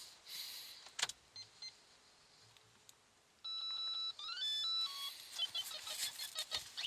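Cold start of a VW 1.4 TSI petrol engine in deep frost, catching on the first try. A click sounds about a second in. About halfway through the steady noise of the start comes in suddenly, together with a run of electronic dashboard beeps stepping up and down in pitch.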